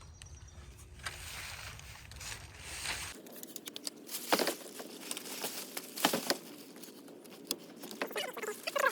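Plastic sheeting crinkling and rustling as it is fitted over a door, with scattered sharp crackles, the loudest about four and six seconds in.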